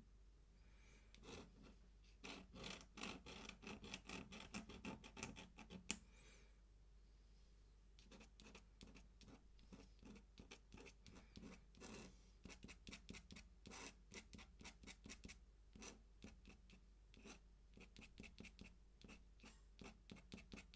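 Faint scratching of an ink pen on paper in many short, quick strokes, louder and denser in the first few seconds, then lighter.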